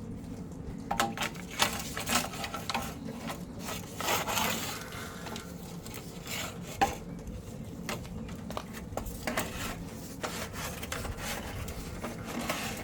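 Drain tools and equipment being handled: irregular clicks, scrapes and rubbing clatter, with a sharp knock about seven seconds in.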